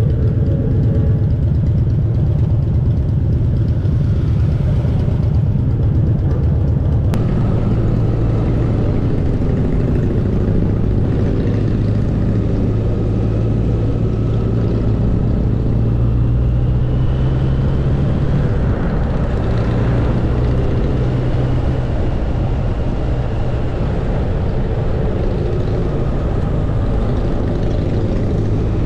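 Motorcycle engine running, heard close from the bike itself, a steady low engine note that shifts with throttle, with an abrupt change about seven seconds in.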